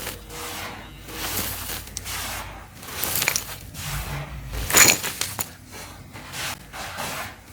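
Dry, crunchy dirt clumps being crumbled, a run of gritty crunching rustles with sharper crackles about three seconds and five seconds in, the second the loudest.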